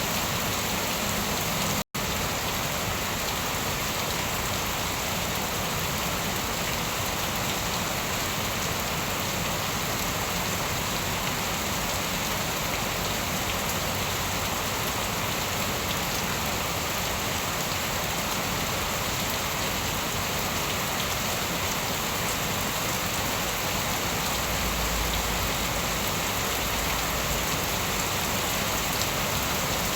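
Steady heavy rain falling, an even hiss of drops. The sound cuts out for an instant about two seconds in.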